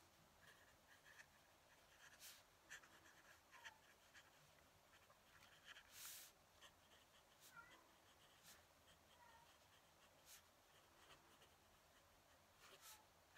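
Fountain pen nib scratching quietly across paper in short, irregular strokes, with a longer stroke about six seconds in.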